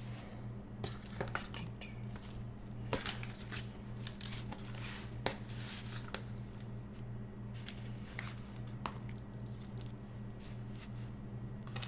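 Hands flipping and handling raw chicken breasts: soft wet squishes and scattered light taps and clicks, over a steady low electrical hum.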